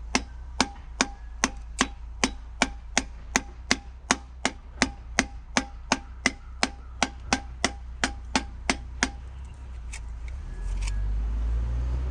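Steady, regular tapping, about two and a half taps a second, of a piston being driven down through a ring compressor into its cylinder. The tapping stops about nine seconds in, and a low rumble rises near the end.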